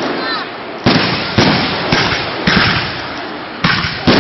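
Fireworks exploding in a rapid series: about six loud bangs roughly half a second apart, each trailing off in a long echo.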